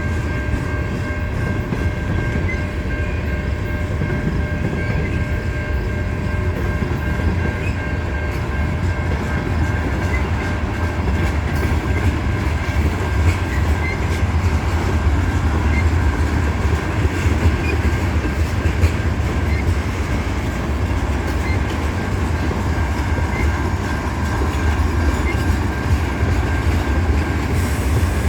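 Freight train cars rolling slowly past, a steady low rumble with wheel clickety-clack, and steady high-pitched tones ringing over it throughout.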